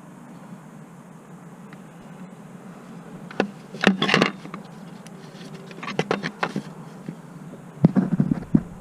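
Short clusters of metallic clicks and knocks from work on a car, three times, over a steady low hum.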